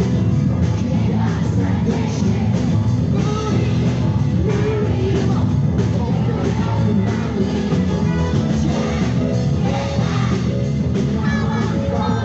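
Loud live music with singing: a band playing a steady beat with voices singing over it.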